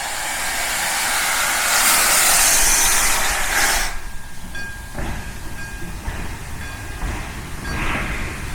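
Steam locomotive hissing loudly as steam is released, building for about four seconds before it cuts off, followed by a low rumble with a couple of short bursts of hiss.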